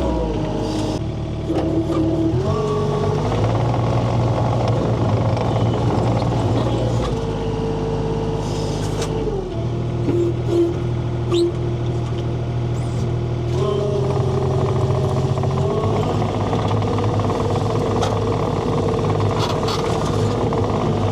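Rented diesel skid steer's engine running under load. Its pitch steps up and down several times as the machine works.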